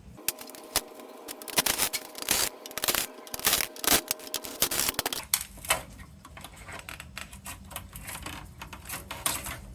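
Scrap electronics parts being handled: a rapid run of metal and plastic clicks and clatter that thins out after about five seconds into occasional light clicks.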